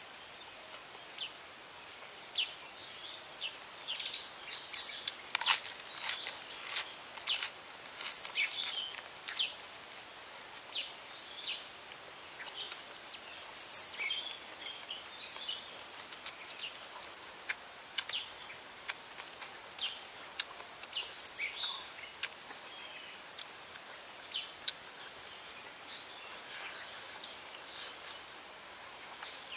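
A person eating fried pork ribs with fresh lettuce: irregular clusters of crisp crunching and chewing clicks, the loudest bursts about 8, 14 and 21 seconds in, over a steady faint hiss.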